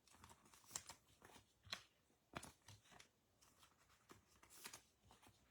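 Faint, scattered clicks and rustles of trading cards being handled and stacked.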